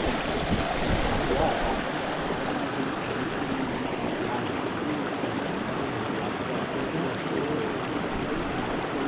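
Steady rushing of flowing water, with faint distant voices underneath.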